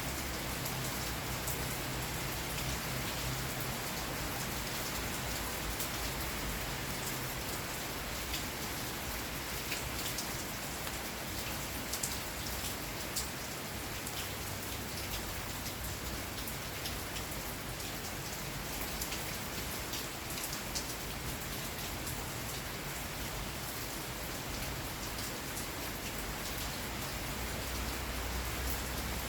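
Steady rain falling, with individual drops ticking sharply now and then over the even hiss, and a low rumble in the first few seconds and again near the end.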